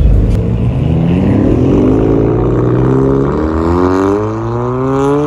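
Car engine revving hard, loud, its pitch climbing steadily for several seconds as it accelerates.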